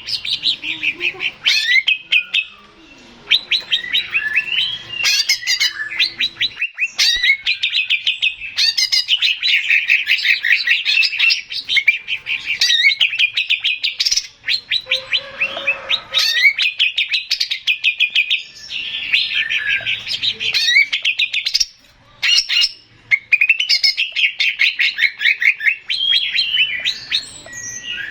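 Male green leafbird (cucak ijo) singing a fast, high-pitched run of chirps and trills in long phrases, with brief pauses about 3 seconds in and again near 22 seconds.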